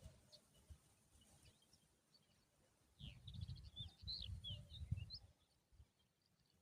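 Small birds chirping: a quick flurry of short, high chirps about three seconds in that lasts a couple of seconds, over a low rumble. Faint overall.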